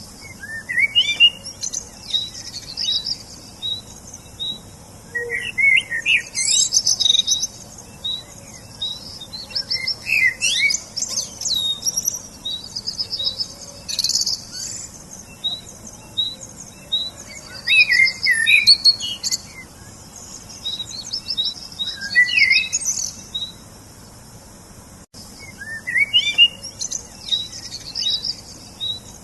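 Several songbirds singing at once: overlapping phrases of quick, high chirps and trills, with a run of evenly repeated high notes and short rising phrases, coming in bursts every few seconds.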